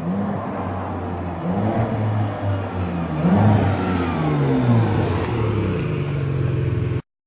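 Ferrari 612 Scaglietti's V12 through a stainless-steel Quicksilver exhaust, revved in several short blips that rise and fall back toward idle, the biggest about halfway through. The sound cuts off abruptly near the end.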